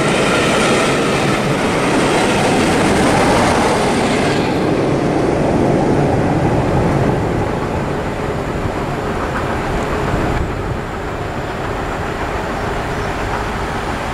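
Passenger coaches of a train passing at speed, a loud rush of wheel and rail noise. About four and a half seconds in the rush drops away, leaving a lower rumble that fades further as the train moves off.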